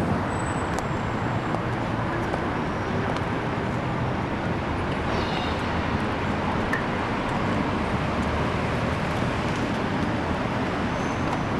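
Steady low rumbling background noise, like distant road traffic, with a few faint ticks.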